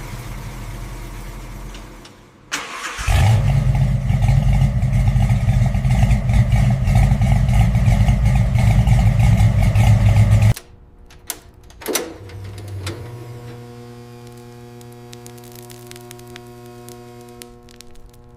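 1970 Plymouth Hemi Cuda's Hemi V8 cranking and starting about three seconds in, then running loudly. The engine sound stops abruptly about halfway through, leaving a quieter steady hum with several held tones.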